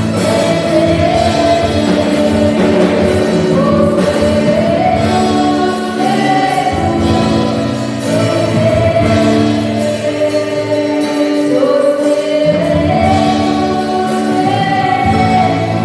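Gospel worship song: a worship team singing held, gliding notes together over band accompaniment.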